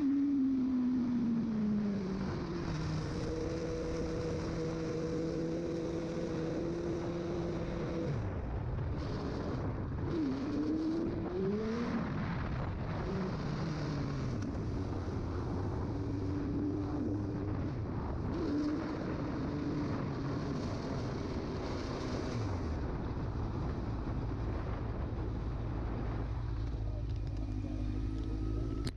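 Motorcycle engine running under way. Its note falls as it slows over the first couple of seconds, holds steady, then rises and falls again about ten to twelve seconds in, over a steady low rumble and rushing noise.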